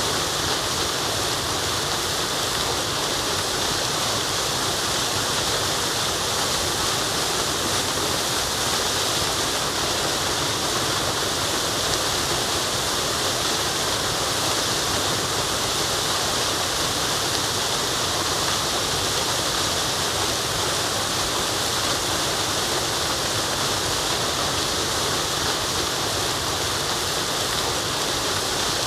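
Waterfall rushing steadily: an even, unbroken hiss of falling water, strongest in the high range, with no splashes or changes standing out.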